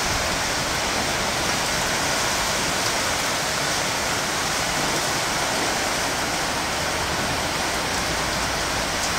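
Heavy thunderstorm rain pouring down, a steady, unbroken hiss.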